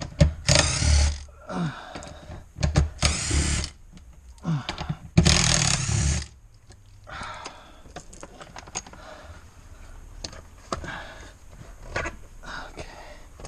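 A handheld power tool, such as a drill or impact driver, runs in three short bursts of about a second each in the first six seconds. Quieter clicks and rattles of parts being handled follow.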